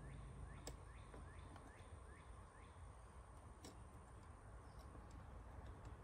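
Near silence, with a quick series of faint bird chirps over the first two seconds and a couple of faint clicks.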